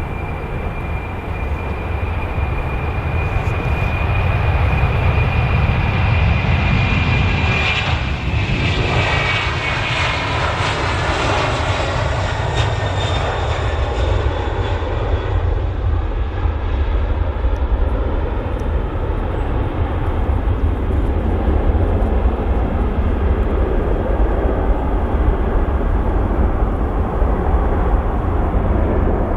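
Jet airliner passing close on landing. Its high engine whine drops in pitch as it goes by, about eight seconds in, while a heavy low rumble carries on throughout.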